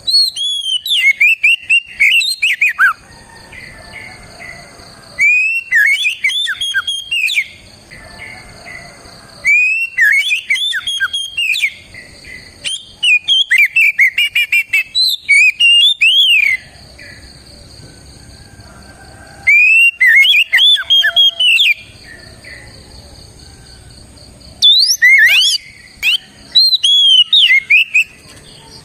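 Oriental magpie-robin singing loudly in about six bouts of rapid whistled notes sweeping up and down. Each bout lasts two to four seconds, with pauses of a few seconds between them.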